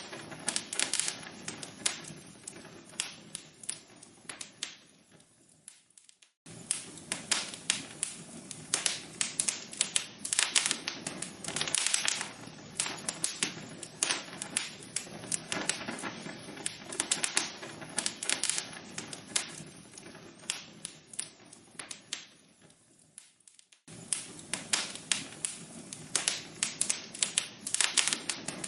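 Wood fire crackling in a fireplace, with a dense, irregular run of sharp snaps and pops from the burning logs. Twice, about six seconds in and again near the end, the crackling fades away to almost nothing and then cuts straight back in, where the looped recording rejoins.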